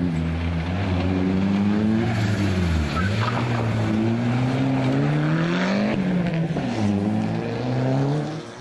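Rally car engine revving hard under acceleration, its pitch climbing in runs and dropping sharply twice, about three and six seconds in. The sound falls away near the end as the car drives off.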